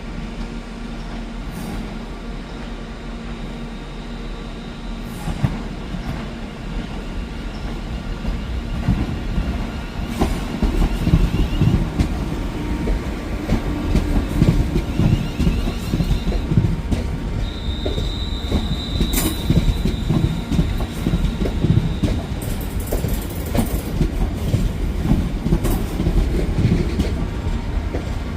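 A train running past on the rails, with a steady hum at first that builds into wheel rumble and clacking over the rail joints. A high wheel squeal sounds for a few seconds about two-thirds of the way through.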